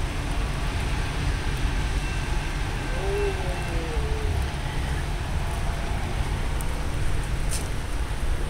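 Steady pouring rain, with a constant low rumble underneath.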